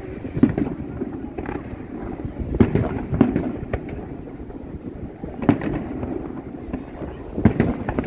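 Fireworks going off: sharp bangs and cracks at irregular intervals, several close together around three seconds in and again near the end, over a continuous low rumble.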